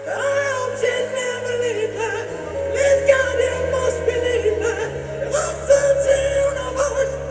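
Live rock band music heard from the stadium stands: a held, wavering lead melody over sustained bass notes that shift twice.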